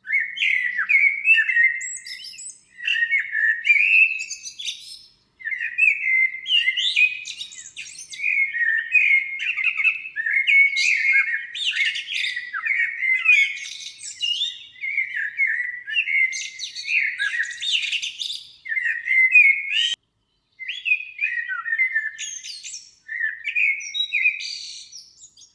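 A songbird singing a long run of quick, varied chirping phrases, broken by a few short pauses.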